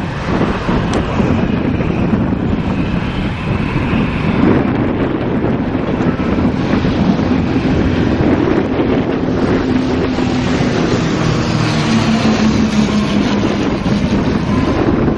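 Boeing 737-800's CFM56-7B engines running at low taxi thrust, a steady rumbling jet noise with a faint hum that comes in about halfway through, mixed with wind buffeting the microphone.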